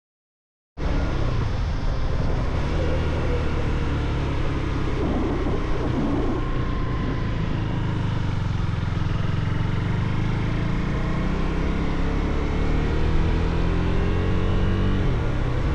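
Motorcycle engine running under way, cutting in suddenly about a second in; its pitch climbs over the last few seconds as it accelerates.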